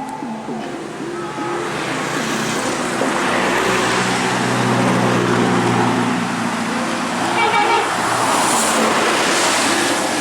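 A heavy vehicle's engine labouring louder and louder as it works through a tight bend, with a short horn toot a little after halfway.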